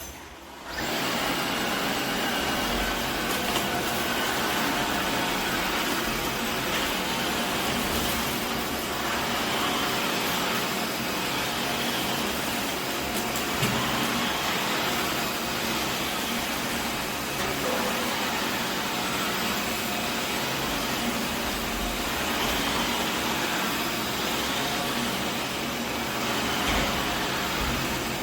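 Tineco Floor ONE S7 Pro cordless wet-dry floor vacuum running: a steady whir of motor and suction that switches on about a second in and cuts off at the end.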